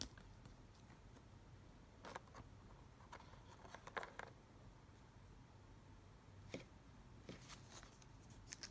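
Near silence with a few faint, scattered rustles and ticks of photo cards and their packaging being handled.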